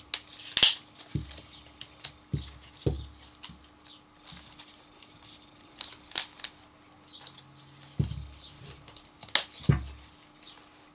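A plastic beehive frame being pulled apart into its two halves by hand: scattered sharp clicks and short scrapes of plastic at irregular intervals, over a faint steady hum.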